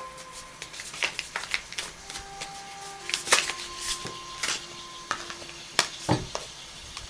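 Oracle cards being shuffled and handled by hand: an irregular run of quick crisp slaps, clicks and rustles, the sharpest a little past three seconds in and around six seconds in.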